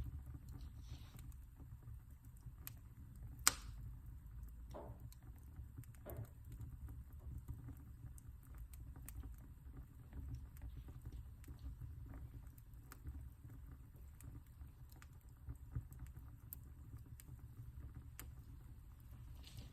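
Wood fire in a fireplace crackling: scattered small snaps and ticks, with one loud pop about three and a half seconds in and a smaller one later, over a low steady rumble of the flames.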